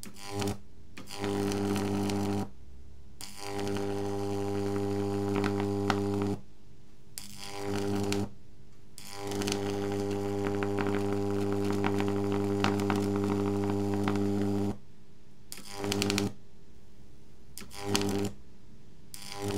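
High-voltage arc from a double microwave-oven-transformer supply, a loud mains buzz with crackle, switched on and off several times in runs of half a second to about five seconds.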